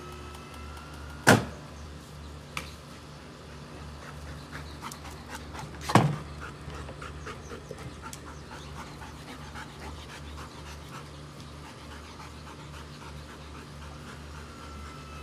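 A dog panting, with two sharp knocks, one about a second in and one about six seconds in, over a steady low hum.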